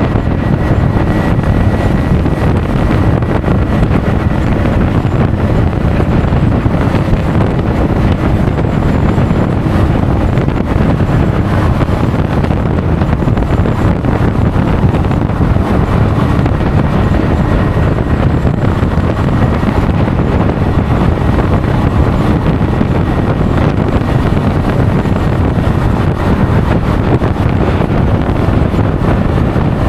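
Loud, steady wind rush over the camera microphone of a rider on a moving Honda Forza 350 scooter, with engine and road noise mixed into the low rumble.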